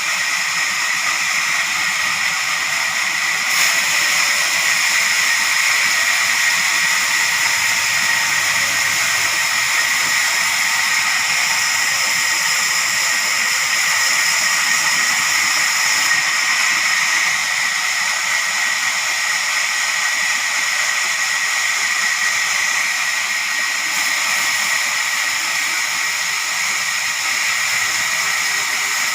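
Sawmill saw running steadily with a loud, high-pitched hissing whine, even throughout with no breaks or knocks.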